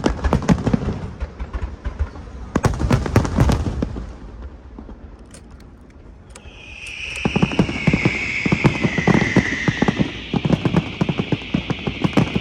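Fireworks going off: two dense volleys of rapid bangs and crackles, then from about six seconds in a loud whistling shriek that falls slightly in pitch over continuous fast crackling pops.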